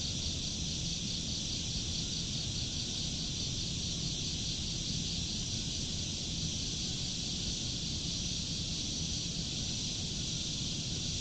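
A steady chorus of insects, such as crickets, chirping in a high, even pulsing trill, with a low steady rumble underneath.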